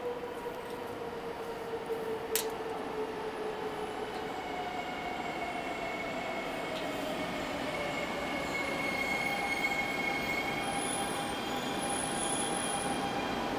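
Shinkansen Hayate train pulling into the platform, growing steadily louder, with tones gliding down in pitch and a high squeal near the end. A single sharp click comes about two seconds in.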